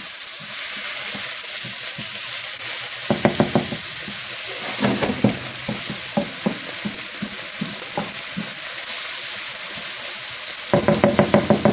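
Onions sizzling steadily in hot oil in a skillet. Bursts of quick, rhythmic scraping come from a utensil stirring the pan, about three seconds in, around five seconds, and again near the end.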